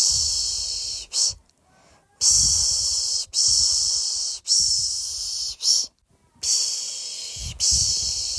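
A person's mouth making the 'pish pish' shushing sound used to lull a baby to sleep: rhythmic hissing strokes of about a second each, with short pauses twice.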